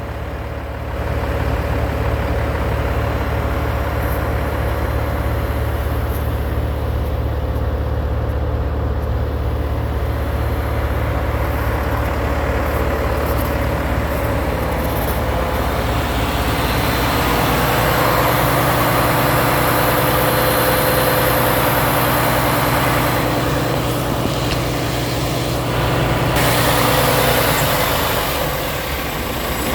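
A truck engine idling steadily. From about halfway through, a broader rushing noise rises over it for around ten seconds, then eases off.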